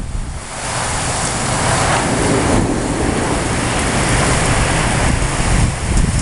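Heavy rain and strong wind of a severe thunderstorm, a steady rushing that swells about half a second in, with a low rumbling buffet underneath.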